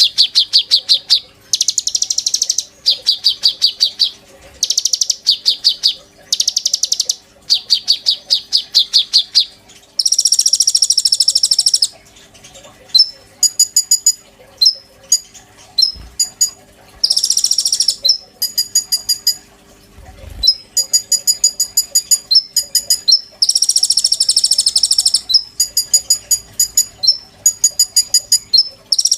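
A songbird known in Indonesia as the konin, singing loudly: rapid trilled phrases about a second long, repeated with short gaps, then sharp high chip notes mixed with longer buzzy rattles.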